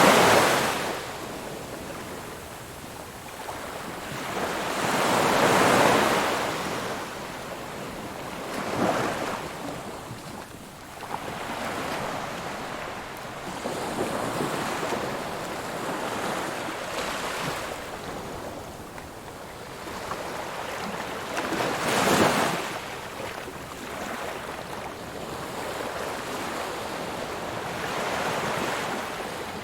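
Ocean waves breaking and washing on a shore, swelling and falling in irregular surges. The biggest breakers come about five seconds in and again near twenty-two seconds.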